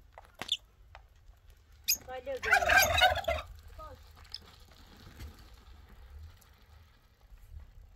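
A bird's call: one loud, rapidly warbling burst about a second long, starting a little over two seconds in, with a couple of sharp clicks before it.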